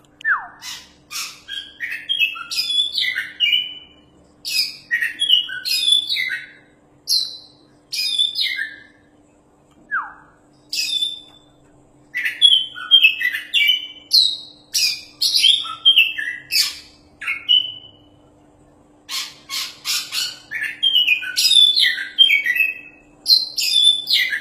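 Oriental magpie-robin (kacer) singing vigorously: rapid, varied phrases of sharp whistles and chirps, broken by short pauses, the longest about ten seconds in and again near eighteen seconds. A faint steady hum runs underneath.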